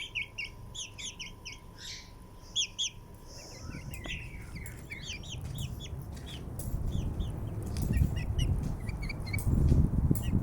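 Baby chicks peeping, many short high chirps in quick succession, thinning out after about four seconds as a low rumbling noise grows louder.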